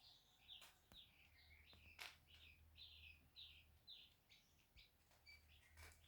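A day-old chick peeping over and over: short, high chirps that each fall in pitch, about two or three a second, with a few sharp clicks in between.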